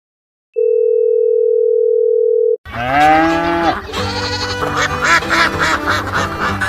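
A steady electronic beep, one pure tone held for about two seconds and cut off sharply. It is followed by a short pitched cartoon-style sound effect that slides down in pitch, and then background music with a steady beat from about four seconds in.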